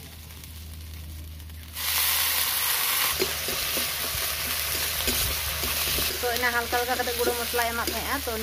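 Paste frying in hot oil in an aluminium kadai: a steady sizzle that starts suddenly about two seconds in, with a metal spatula stirring and scraping the pan.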